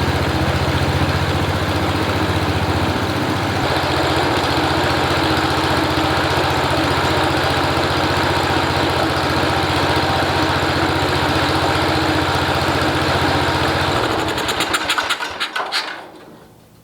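Cub Cadet 127 garden tractor's single-cylinder Kohler engine running steadily. About fourteen seconds in it winds down, its firing slowing and fading out within a couple of seconds until it stops.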